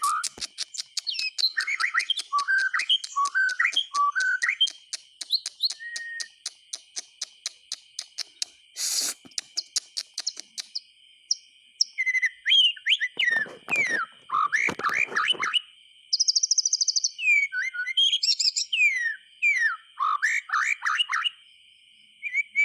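White-rumped shama (murai batu) singing: varied whistled phrases with rising and falling glides, and a rapid run of ticking notes through the first half. A steady high-pitched whine runs underneath.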